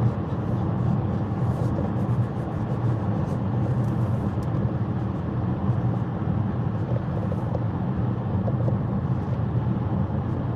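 Steady road and engine noise inside a moving car's cabin, a low even rumble with no letup.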